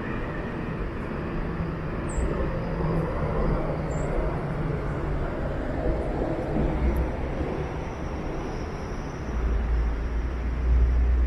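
Early-morning downtown street ambience: a steady hum of traffic. A deeper rumble swells near the end.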